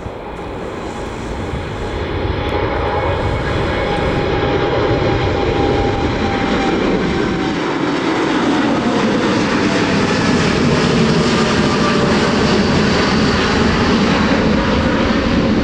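Jet airliner's engines, a loud even roar that grows louder over the first few seconds and then holds steady.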